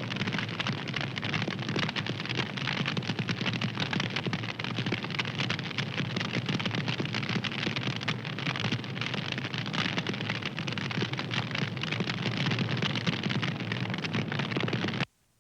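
Wood fire crackling steadily, a dense run of small snaps and pops over a soft rushing hiss. The sound cuts out abruptly for a fraction of a second near the end.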